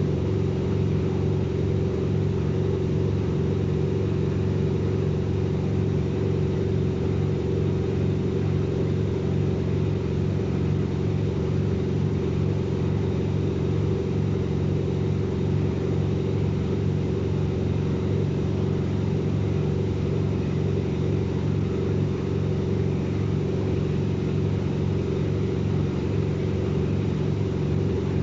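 Washing machine running, a steady motor hum with a constant whine and no pauses or changes in speed.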